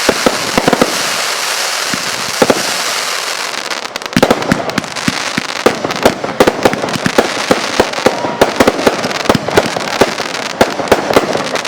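Fireworks going off: a steady crackling hiss with a rapid, uneven string of sharp bangs, the bangs coming thick and fast from about four seconds in.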